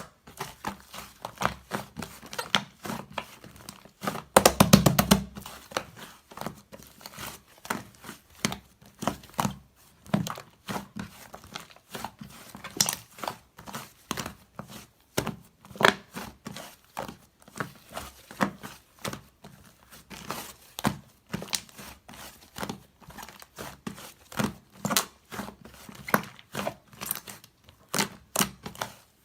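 Light-purple slime being squished and stretched by hand, giving an irregular run of crackly clicks and pops. A louder, denser crackle comes about four seconds in.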